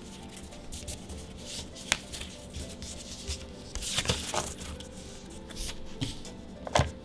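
Magic: The Gathering trading cards being handled and slid over one another, with soft rustling and a few sharper card snaps about two, four and seven seconds in, the last one loudest. Soft background music plays underneath.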